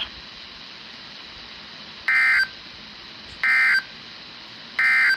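Three short, identical warbling data bursts from a weather radio, spaced just over a second apart over a steady radio hiss: the EAS/SAME end-of-message code that closes a flash flood warning broadcast.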